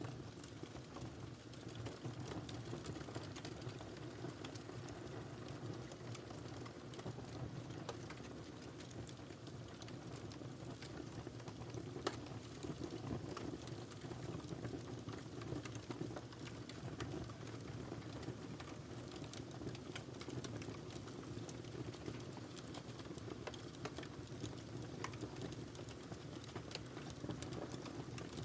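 Wood fire burning in a fireplace: a steady low rush with scattered small crackles and pops, one louder pop about twelve seconds in.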